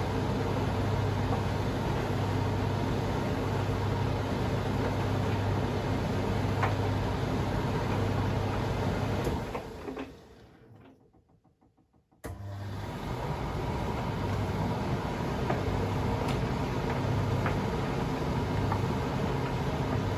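Privileg Sensation 952 S top-loading washing machine running with a steady motor hum. The sound fades away to near silence about ten seconds in, then comes back abruptly about two seconds later.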